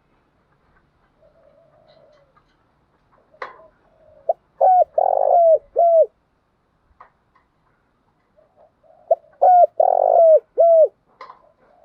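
Spotted dove cooing: two phrases a few seconds apart, each a run of short rounded coos with one longer, rougher note in the middle.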